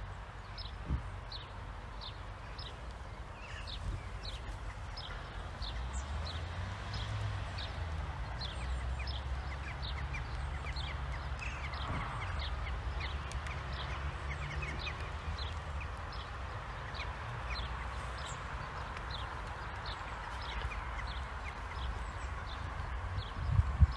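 A small bird calling over and over, short high downward chirps about two a second, over a low rumble. A single thump near the end is the loudest sound.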